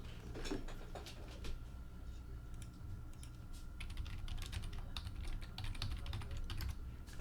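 Typing on a computer keyboard: a run of quick key clicks, a few at first and then a dense burst in the second half.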